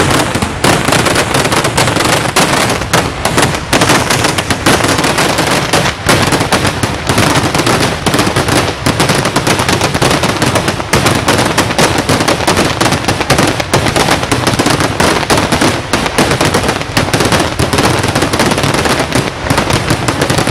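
Kerala temple-festival fireworks going off in a dense, unbroken barrage of firecracker explosions, the bangs so close together that they run into one continuous loud crackling rattle.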